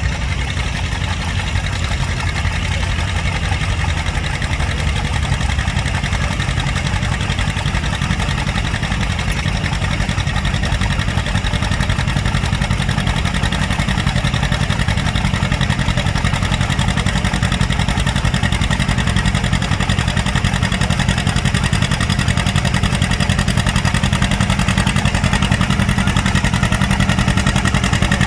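Farm tractor engine running steadily at a near-constant speed, growing slightly louder over the stretch.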